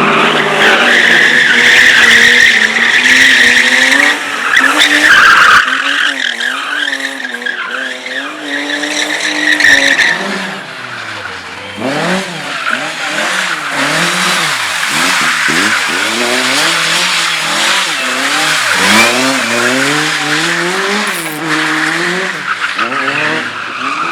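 A slalom race car driven hard through the course: its tyres squeal continuously for about the first ten seconds, then the engine revs up and down again and again as the driver works through the gates.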